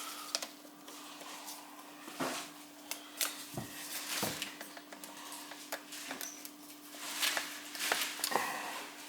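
Scattered light clicks, taps and rustles of hands handling a wall thermostat and its wiring, over a faint steady hum.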